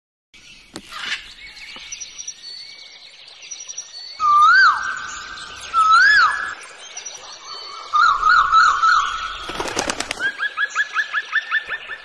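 Several bird calls. Two loud whistled notes rise and fall, then a quick warbling run of notes comes a few seconds later. A sharp crackle is followed by a fast string of short rising chirps, about eight a second.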